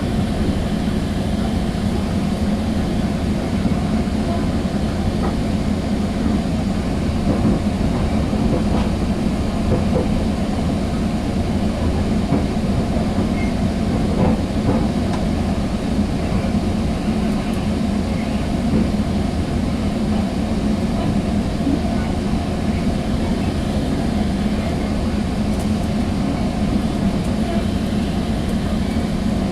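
Sound Transit Sounder commuter train running at steady speed, a continuous rumble of wheels on rail, heard from inside a passenger car, with a few faint clicks.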